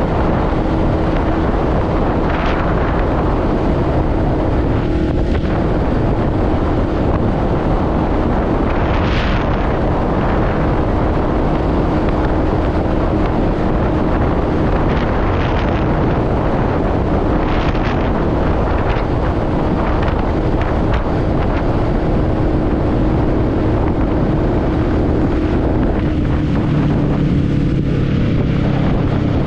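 Motorcycle engine running at a steady cruise with heavy wind noise buffeting the microphone. Near the end the engine note drops slightly and a lower hum comes in.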